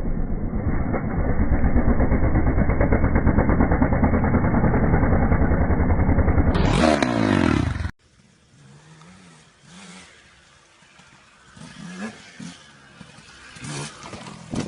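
Motorcycle engines across several clips. A loud engine runs with a fast, rattling pulse for about six and a half seconds, followed by a brief sweep in pitch. After a sudden cut, a much fainter engine revs up and down, with a few light knocks.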